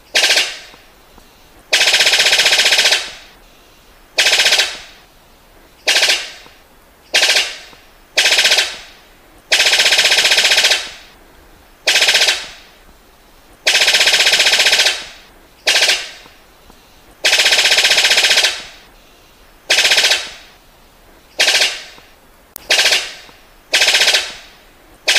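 Rough rapid-fire rattling call ('tembakan kasar') of a burung sabit coklat (brown sickle bird), used as a training recording. Loud, dense bursts start suddenly and repeat about a dozen times, some short and some over a second long, with brief pauses between.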